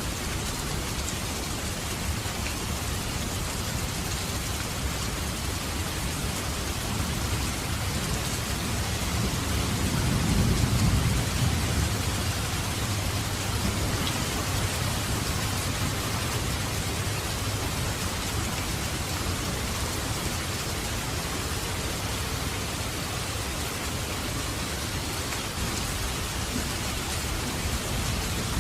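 Heavy rain falling steadily in a dense, even hiss of raindrops. A low rumble of thunder swells up about ten seconds in and fades over a couple of seconds.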